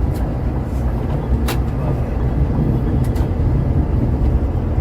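Scania K410 multi-axle coach travelling on the road, a steady low rumble. Three brief sharp clicks come through it, about a second and a half apart.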